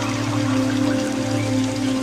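Steady rain falling, under soft background music of long held notes.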